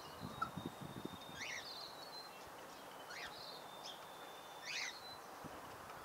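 A small bird calling three times, each call short and about a second and a half apart, over a thin steady high whistle. There are a few soft knocks and rustles in the first second.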